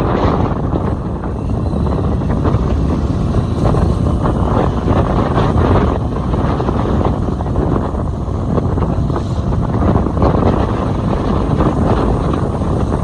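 Wind rushing over the microphone of a moving motorbike: a loud, steady roar of wind noise.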